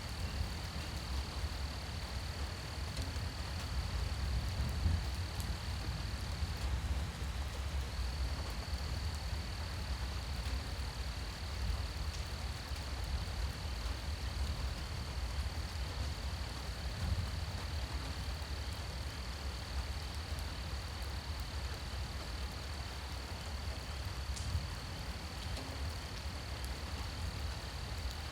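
Night insects holding a steady high-pitched trill that breaks off about seven seconds in and resumes a second later, over a faint even hiss of rain and a low steady rumble.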